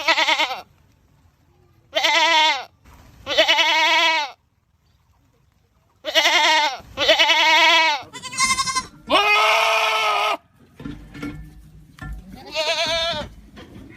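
Goats screaming: a string of about seven loud, wavering calls, one every second or two, the longest around the middle.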